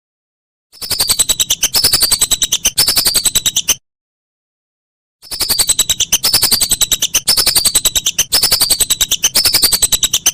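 Whistling duck (belibis) calling: a series of quick, rapidly pulsed phrases about a second each, each falling in pitch, three in a row and then, after a pause, five more.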